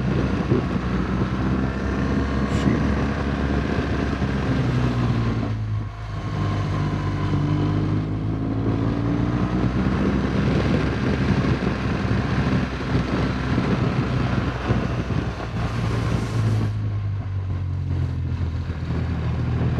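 BMW R1200GS boxer-twin motorcycle engine running at road speed, with wind rushing over the helmet-mounted microphone. The engine note dips about six seconds in and then climbs again.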